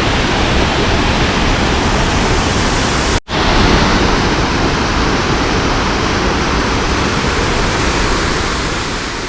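Fukuroda Falls waterfall: a loud, steady rush of falling water. It cuts out for a moment about three seconds in, then carries on.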